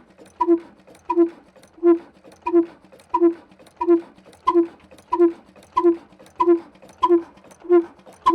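Old black desi diesel engine running at slow speed, a steady, even exhaust beat of about three beats every two seconds, each a short ringing pop.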